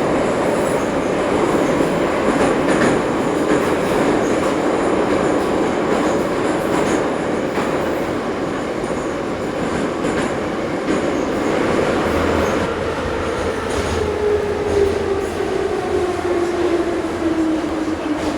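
Ezh3 metro train running in the tunnel: a steady rumble of wheels on rail with scattered clicks. Over the last few seconds a whine falls steadily in pitch as the train slows.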